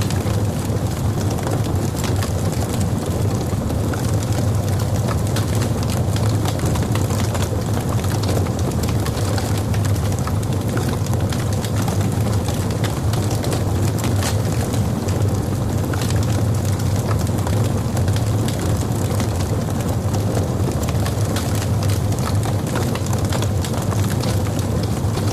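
Wood fire burning in a fireplace: a steady low rumble of the flames with frequent small, irregular crackles and pops from the burning logs.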